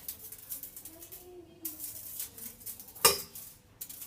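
Metallic sphere rattling with many quick, irregular metallic clicks, like cutlery jangling, and one loud clank about three seconds in.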